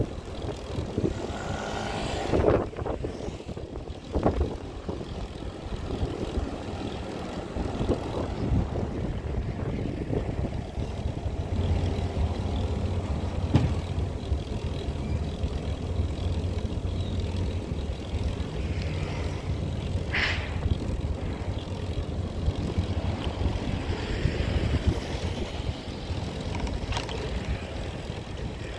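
An engine running with a steady low drone, with scattered clicks and knocks over it.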